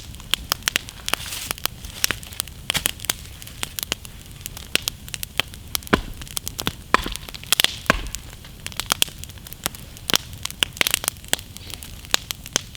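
Wood campfire burning, crackling steadily with many irregular sharp pops, a couple of louder pops about six and eight seconds in.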